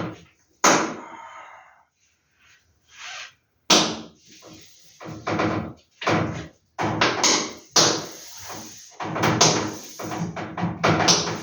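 Handling noise while unpacking and sorting vintage posters: a run of sharp knocks and thuds with rustling in between, and a short lull about two seconds in.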